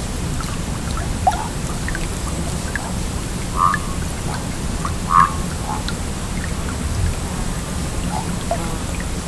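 Stream water flowing with a steady rush, with scattered bubbling plinks and gurgles; two louder gurgles come near the middle, about a second and a half apart.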